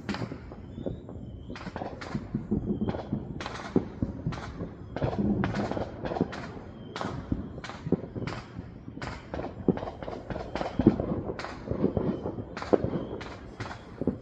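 Fireworks and firecrackers going off in an irregular, rapid series of sharp cracks and pops, one to three a second, over a low background rumble.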